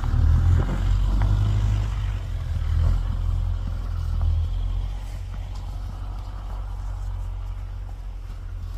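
Low, gusty rumble of wind buffeting the microphone in a snowstorm, strongest in the first half and easing after about four and a half seconds.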